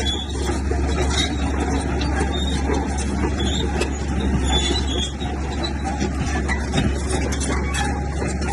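Heavy diesel earthmoving machine running steadily under load, with scattered metallic clanks and rattles over the low engine drone.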